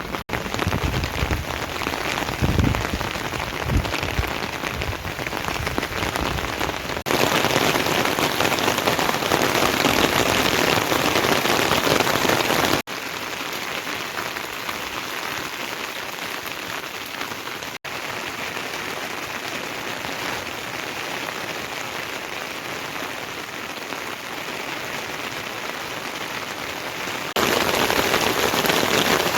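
Heavy rain falling as a steady hiss, in several spliced shots of different loudness: louder from about 7 s to 13 s and again near the end, with a few low thumps in the first few seconds.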